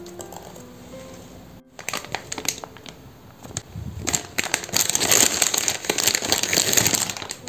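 Crinkling and rustling with scattered clicks, starting about two seconds in and growing much louder from about four seconds in.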